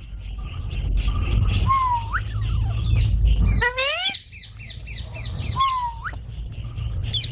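Parrot calling: a whistled note that dips and then sweeps sharply upward, given twice, with a louder harsh rising squawk between them.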